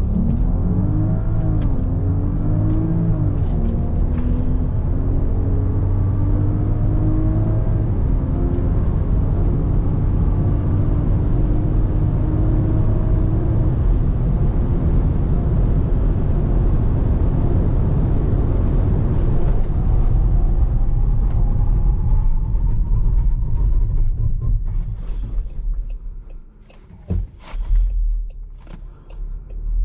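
Range Rover Autobiography engine under full-throttle acceleration, its pitch climbing and dropping back at gear changes, then pulling steadily higher as road and wind noise build. Near the end the sound drops away as the SUV comes off the power, with a few knocks.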